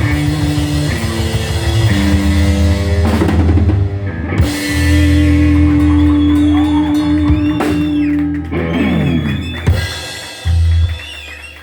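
Live rock band playing an instrumental passage on drum kit, bass and electric guitar, with no singing. A drum fill comes near the end, then a few closing hits, and the music dies away.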